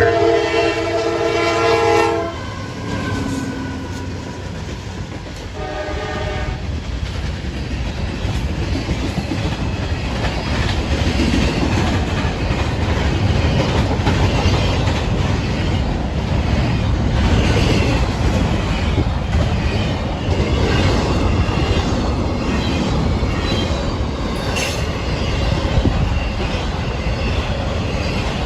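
Train locomotive air horn sounding a chord of several notes for about two seconds, then a short second blast a few seconds later. Then the train rolls past with a steady rumble and wheels clattering over the rail joints.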